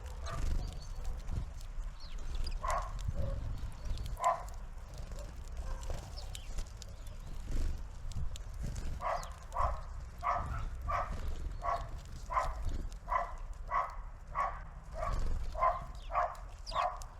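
An animal calling over and over: a couple of single calls, then from about halfway a steady run of short calls, roughly one and a half a second.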